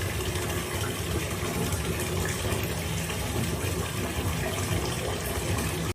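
Steady, loud rushing noise, like running water, that cuts off abruptly at the end.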